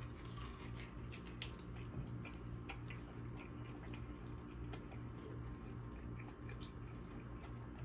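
A person chewing food close to the microphone: quiet, irregular small clicks and mouth sounds over a steady low hum.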